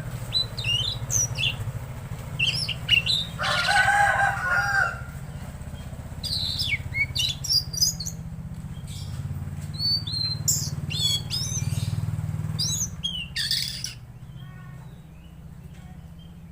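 Tledekan laut songbird singing a rapid string of short, varied high whistles and chirps, with one harsher, buzzy call about four seconds in. A steady low hum runs underneath, and the song stops about three-quarters of the way through.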